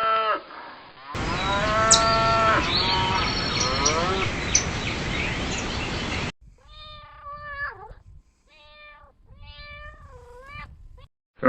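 A cow's moo ending, then cats meowing: first over a steady hiss, then four separate meows of about a second each.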